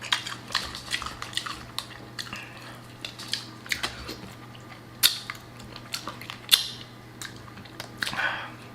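Close-up eating of boiled crawfish and shrimp: irregular sharp cracks and crackles of shells being broken and peeled, with wet mouth sounds, two louder cracks in the middle. A steady low hum runs underneath.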